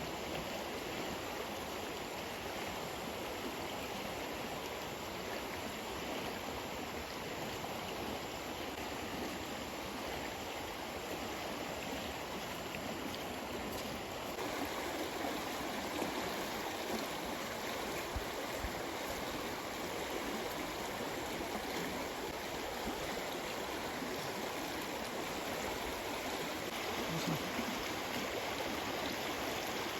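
A small stream flowing steadily, its level lifting slightly about halfway through.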